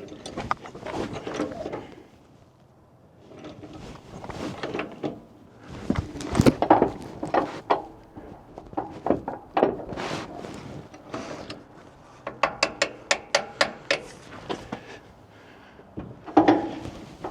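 Scattered mechanical knocks and clunks of hand work, with a quick run of about eight sharp clicks about three-quarters of the way through.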